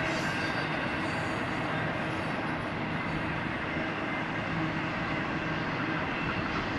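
Double-stack intermodal freight train's well cars rolling past, a steady rumble of steel wheels on rail.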